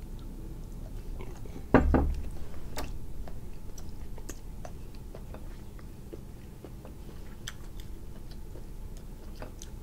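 A person chewing and biting grilled cuttlefish, with small wet mouth clicks scattered throughout. A brief louder sound about two seconds in.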